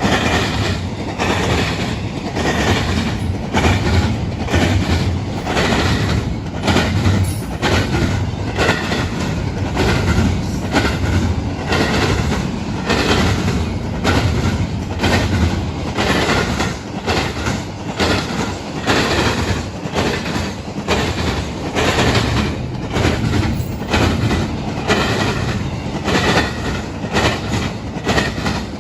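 Train cars rolling past at track level, their wheels clicking rhythmically over rail joints without a break.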